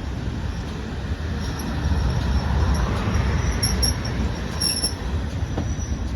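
Railway train running with a steady low rumble, with several brief high-pitched wheel squeals from the rails near the middle.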